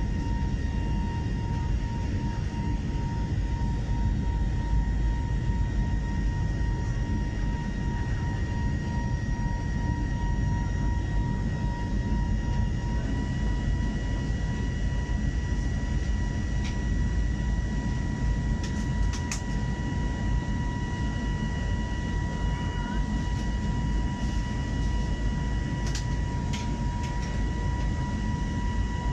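Airliner cabin noise: a steady rumble of the engines and rushing air with a steady high whine over it. A couple of faint clicks come through near the middle and toward the end.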